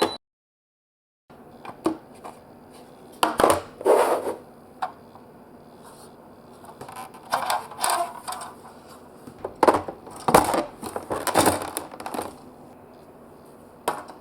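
Marbles rolling and clacking through a block-built marble run: irregular clusters of sharp clicks and rattles with short quieter stretches of rolling between them, after a moment of dead silence at the very start.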